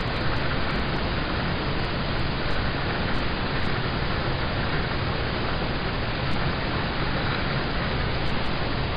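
Steady rain falling on a car's roof and windows, heard from inside the cabin: a dense, even hiss with scattered single drop ticks.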